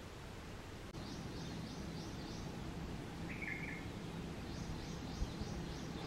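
Bird chirping: two runs of quick, high repeated chirps, with a single short lower call about three seconds in, over steady background noise.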